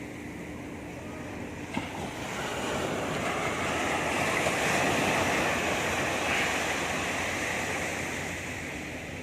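Sea waves breaking on a beach: the wash swells up from about two seconds in, peaks midway and fades away again. A short click comes just before the swell.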